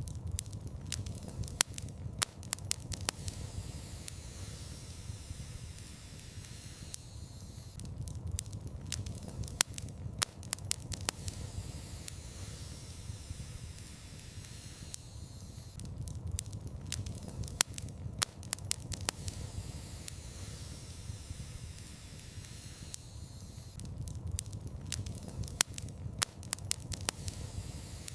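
Fire burning in a fireplace: a low, steady rush of flame with sharp crackles and pops that come in clusters. The same stretch of sound repeats about every eight seconds, a looped recording.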